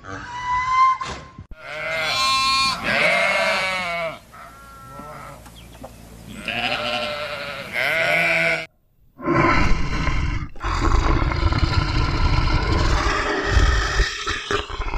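Sheep bleating in several long, wavering bleats. After a short break about nine seconds in, a tiger growls in a low, rough, continuous growl.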